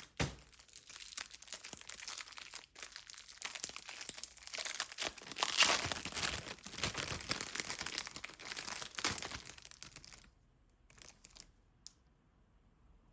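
Packaging being crinkled and torn by hand, a dense crackling rustle that swells about halfway through and stops about ten seconds in.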